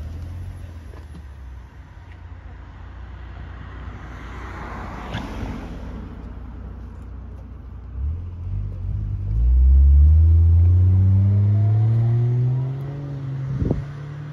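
A car engine running, with a rushing swell of noise midway, then from about eight seconds in a loud engine note that climbs slowly in pitch for several seconds before dropping away; a sharp click follows near the end.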